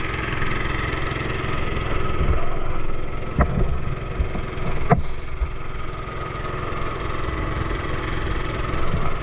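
A motor canoe's engine running steadily, with two brief knocks about three and a half and five seconds in.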